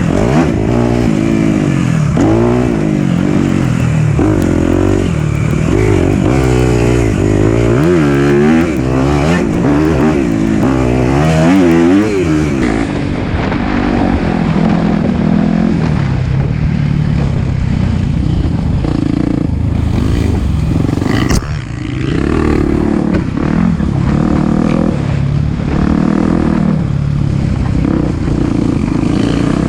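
Four-stroke single-cylinder dirt bike engine being ridden on a trail, the revs rising and falling quickly over and over for the first dozen seconds, then running steadier and lower.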